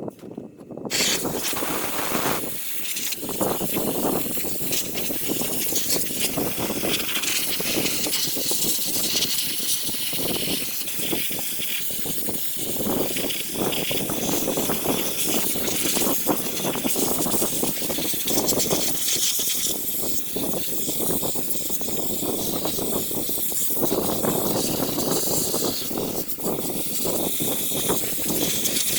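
Sandblaster running on a rusty truck frame: a loud, steady hiss of abrasive blasting that starts abruptly about a second in, swelling and easing a little as the nozzle moves.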